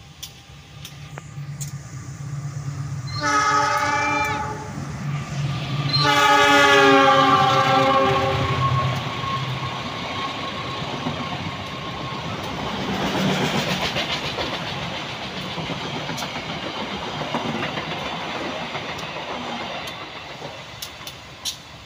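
A diesel-hauled passenger train running through a station without stopping. The locomotive sounds its horn twice, a short blast and then a longer one, over the rumble of its engine. Then the coaches roll past with a long steady rush of wheels on rail, fading near the end.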